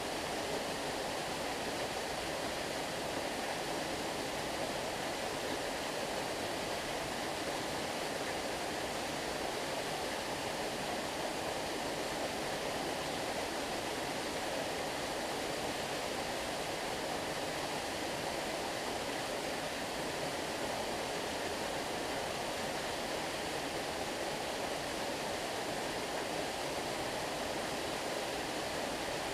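Flowing stream water, a steady even rushing with no breaks or changes.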